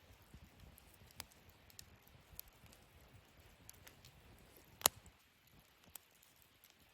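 Small wood fire in a fire stand crackling faintly, with scattered sharp pops; the loudest pop comes about five seconds in.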